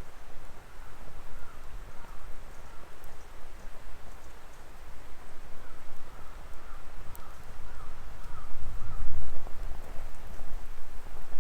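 Wood fire burning in a Coleman Fire Disk fire pit, with a steady low rumble that swells near the end and a few sparse sharp crackles.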